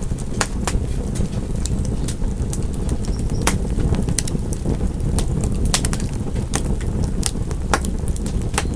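Wood fire crackling: sharp, irregular pops and snaps, several a second, over a steady low rumble of the burning fire.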